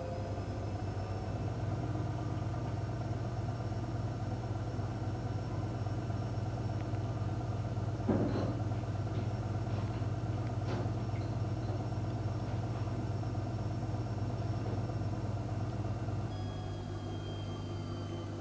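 Electrolux washing machine running: a steady motor hum with a faint whine that rises in pitch at the start and falls near the end, and a few light knocks around the middle.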